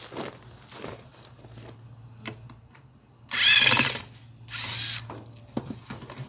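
A power drill/driver backing the screws out of a swarm catcher box's lid: two short runs of the motor whine, the first about three seconds in and the louder, the second about a second later, with scattered clicks and knocks between.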